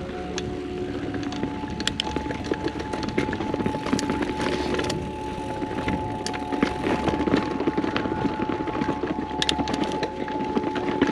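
Mountain bike riding downhill on dirt singletrack: tyres rolling over the trail with many clicks and rattles from the bike over rough ground, and a steady high hum throughout.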